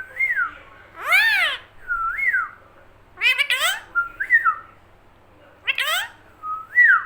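Pet green parrot calling and whistling: about three short arched calls alternate with short rise-and-fall whistles.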